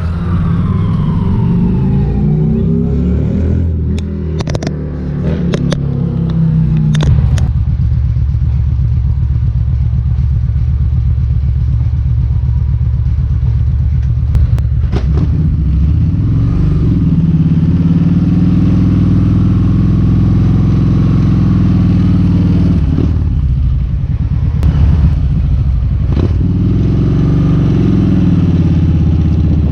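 Kawasaki Vulcan 1700 Vaquero's V-twin engine running on the move. The pitch falls at the start and later dips and climbs back three times. A few short clicks come in the first quarter.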